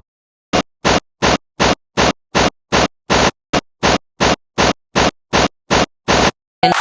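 Short bursts of static-like noise repeating evenly about two and a half times a second, each cut off to dead silence before the next: a stuttering, chopped-up audio edit.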